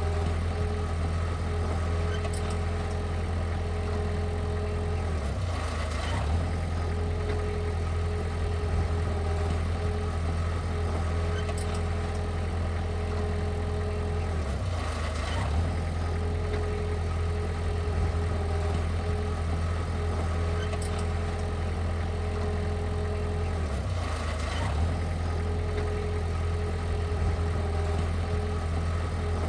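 Heavy-equipment diesel engine running steadily at a low, even note, with a brief dip and change in its sound about every nine seconds.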